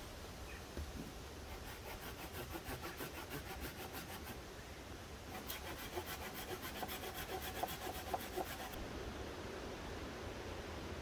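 Hand saw cutting through a wooden limb in two bouts of rapid back-and-forth strokes, the second starting about five seconds in.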